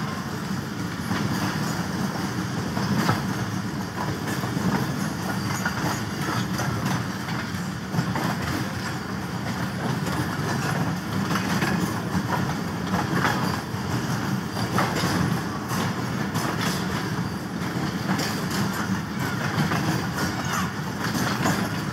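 Train running on the rails: a steady rumble with scattered clicks and knocks from the wheels.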